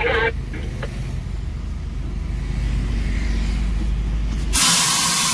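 Fire engine running with a steady low rumble. About four and a half seconds in, a sudden loud hiss starts and cuts off abruptly about a second and a half later.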